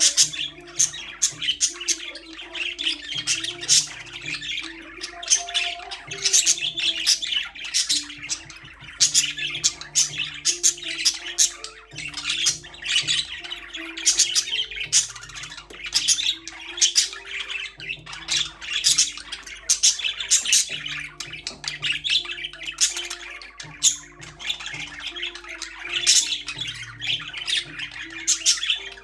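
Budgerigars chirping and chattering without pause, a dense stream of rapid high calls, over background music with slow stepping notes.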